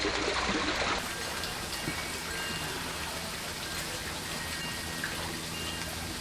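Backyard pond waterfall running: a steady splash and patter of falling water, dropping slightly in level about a second in.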